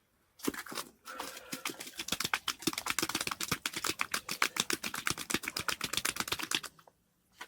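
Fishing reel clicking rapidly and steadily, about ten clicks a second, as deep line is wound or run off the spool; the clicking stops shortly before the end.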